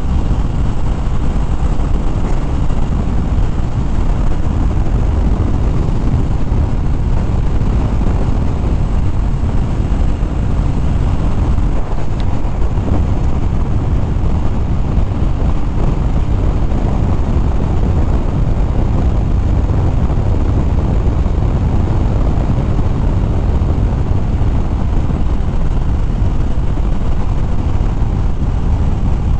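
Motorcycle riding at steady cruising speed: a constant low rush of wind buffeting the rider's helmet microphone over the engine's drone, with no distinct events.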